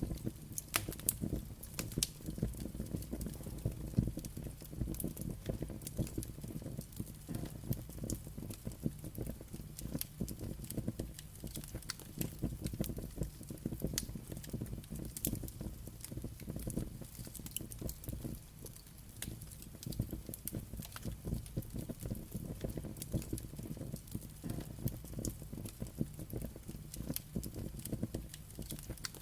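Wood fire burning steadily, with many small crackles and sharp pops scattered throughout over a low rumble.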